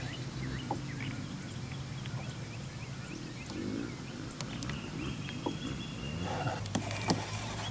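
Birds calling, with a steady low hum underneath and a few scattered soft clicks.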